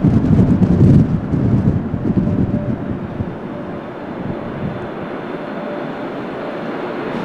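Boeing 757-200 jet airliner noise on a crosswind landing. A heavy low rumble in the first second or two eases to a steady engine noise, which grows slowly louder and hissier toward the end.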